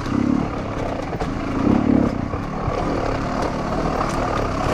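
Off-road dirt bike engine running under the rider, revved up twice, briefly about a quarter second in and harder near two seconds in.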